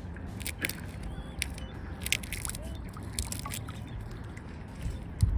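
Swans feeding at the water's edge: irregular sharp bill clicks and snaps, with small drips and sloshes of water.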